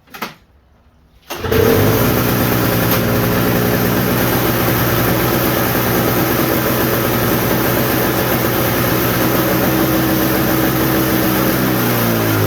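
Old Toro snowblower's small engine restarted without starting fluid: a brief pull sound, then it catches about a second in and runs steadily. Near the end its engine speed shifts.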